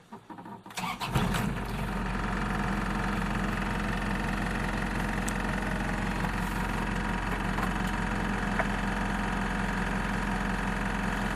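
Nissan Vanette 2.2-litre diesel engine cold-started: a brief crank, it catches on the first try about a second in, then settles into a steady idle.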